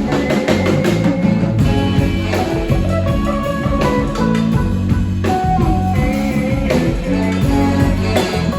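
Live blues-rock band playing: guitar lines over a steady drum beat.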